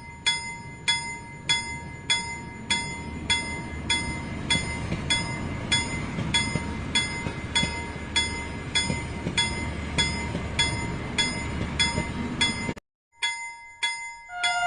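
Toy steam train running on its track, a low rumble, under background music with a regular chiming beat about twice a second. Near the end everything cuts out for a moment.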